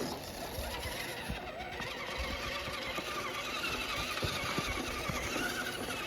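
An RC crawler truck's small electric motor and gearbox whining steadily, its pitch wavering a little, as it crawls slowly up an icy slope. There are a few low thuds underneath.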